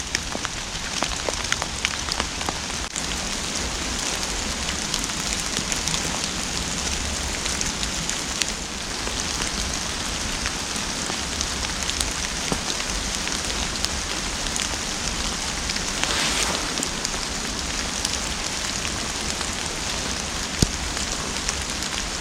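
Steady rain falling in woodland, with many single drops tapping sharply close by.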